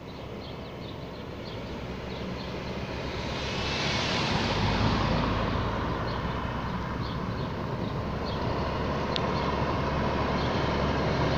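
Road traffic: a vehicle passes close about four seconds in, its sound falling in pitch as it goes by, over steady engine and tyre noise that slowly grows louder.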